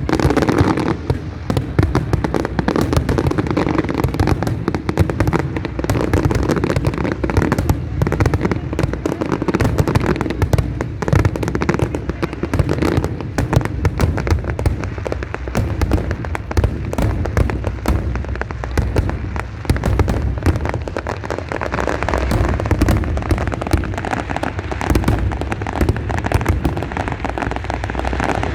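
Large fireworks display: a continuous barrage of bangs and crackling bursts, many overlapping each second, over a deep rolling rumble.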